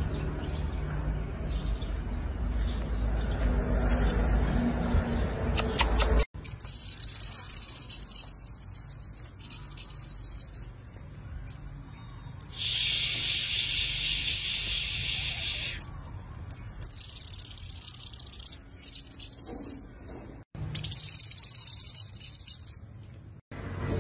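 Sunbird singing: bursts of fast, very high-pitched trilled notes, four phrases a few seconds long with short silent gaps between them, after a stretch of low background rumble in the first few seconds.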